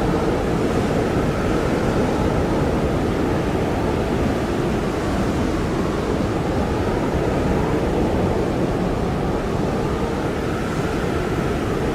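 Blizzard wind blowing hard and steadily, a dense rushing noise with a faint whistling tone that wavers up and down.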